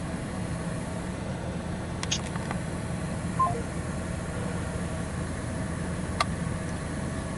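Steady low hum of touchless automatic car wash machinery heard from inside the vehicle's cabin during a pre-soak stage, with a couple of sharp clicks and a short electronic beep about three and a half seconds in.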